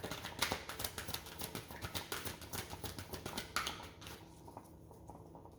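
A deck of oracle cards being shuffled by hand: a quick run of soft card flicks and slaps that stops about four seconds in.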